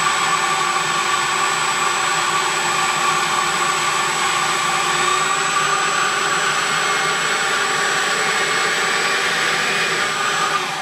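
A 4500KV brushless RC jet motor spinning at high speed: a loud, steady whine with a high tone over it. Near the end its pitch starts to fall as it winds down.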